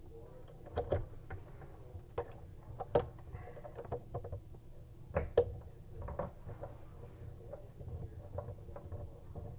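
Scattered light clicks and knocks, two of them sharper about three and five seconds in, over a low steady hum.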